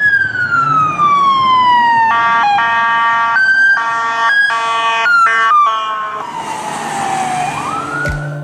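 Electronic siren wailing: a long falling wail, then a few seconds of steady tones switching back and forth, then another fall and a quick rise near the end.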